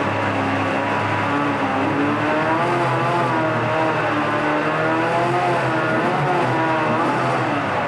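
1997 Mercury 40 hp four-cylinder two-stroke outboard running in forward gear, its engine speed wavering slightly up and down.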